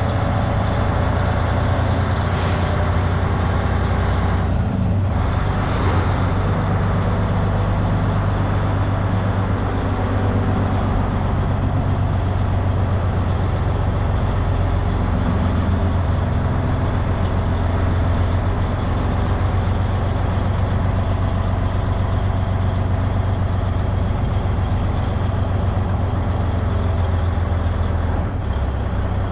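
Semi truck's diesel engine running steadily, with a short air-brake hiss about two and a half seconds in. The engine note shifts slightly near the end.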